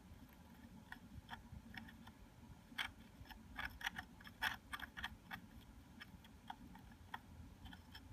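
DJI Phantom 3 drone's left rear brushless motor being turned, giving faint, irregular scratchy clicks and grinding, busiest around the middle. The owner takes it for the motor rubbing on something inside, perhaps a bad bearing.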